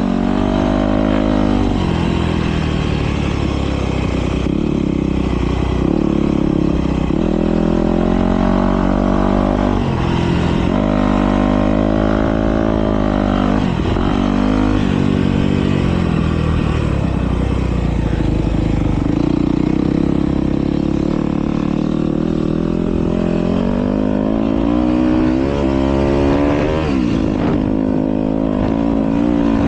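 Motocross bike engines racing, the pitch climbing and dropping over and over as the throttle opens and closes. There is a long climb in pitch a little before the end.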